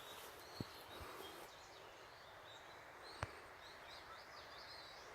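Faint small birds chirping, repeated short high twittering calls over a hiss of outdoor background noise, with two sharp clicks, one about half a second in and one about three seconds in.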